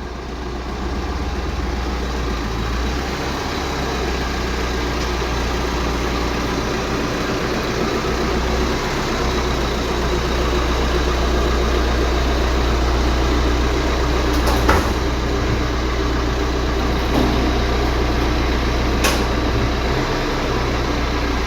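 A car's engine and road noise heard from inside the cabin while driving: a steady low rumble that swells slowly, with a few short clicks in the second half.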